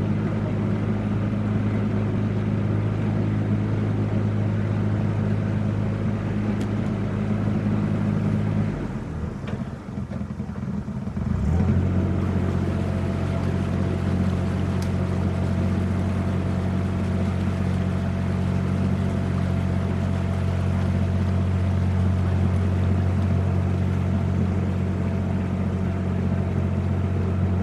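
Narrowboat engine running steadily, dropping back and faltering for a couple of seconds about nine seconds in, then picking up again at a slightly different pitch and running steadily on.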